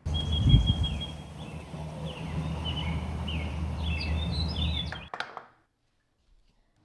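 Small birds chirping in short, high calls over a steady rushing outdoor background, with a low thump about half a second in. It all cuts off suddenly about five seconds in, leaving near silence.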